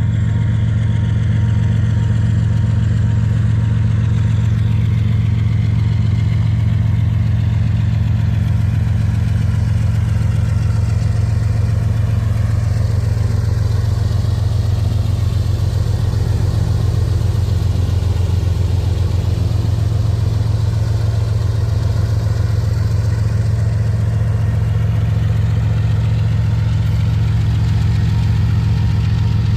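Union Pacific General Electric diesel-electric locomotives running under power as they pull out, a loud steady low engine drone with a fine, even pulsing throughout.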